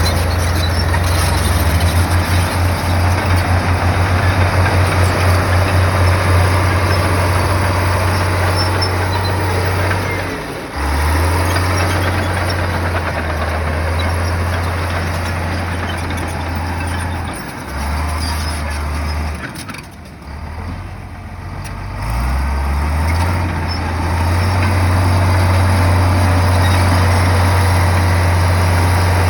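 Heavy bulldozer's diesel engine working under load, its low note shifting up and down as the load changes. It eases off about twenty seconds in, then builds back up and holds steady.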